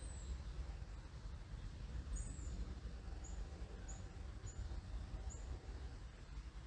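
A small bird giving short, very high, thin chirps every second or so, a couple of them drawn out into longer downward-sliding notes, over a steady low rumble.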